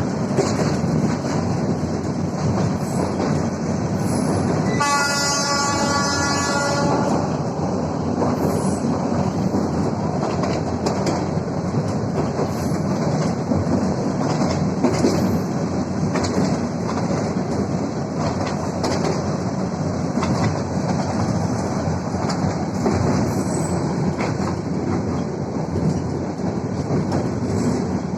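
Train running on the rails, a steady noise with the clicking of wheels over rail joints. Its horn sounds once, for about two seconds, about five seconds in.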